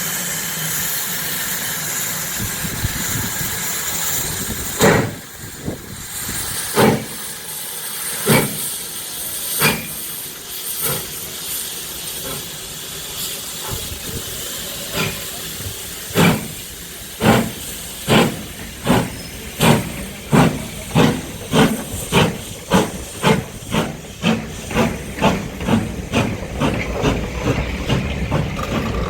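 A railway locomotive moving off: a steady hiss, then sharp regular beats that start slowly and speed up to two or three a second.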